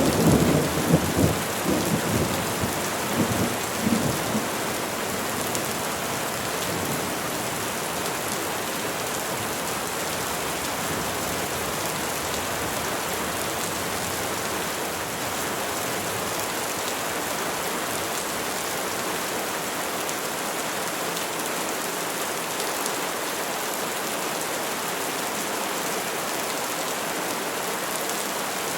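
Steady rain falling on trees, an even hiss throughout. A low rumble of thunder swells in the first few seconds and dies away.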